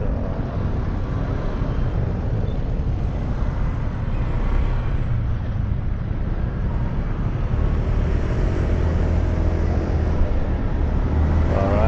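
Wind rush and a motorcycle's engine, heard riding through a lavalier mic under a balaclava inside an open half-face helmet. A steady low engine hum grows stronger in the last few seconds.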